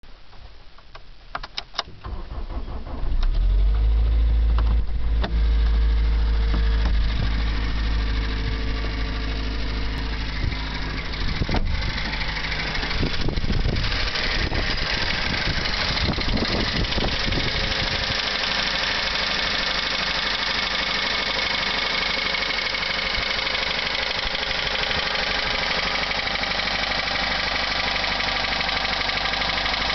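Toyota Rush engine started, catching about three seconds in, then running at idle with a metallic ticking (kachi-kachi). The dealer takes the ticking for piston slap against the cylinder walls, while the owner suspects the tappets or the timing chain.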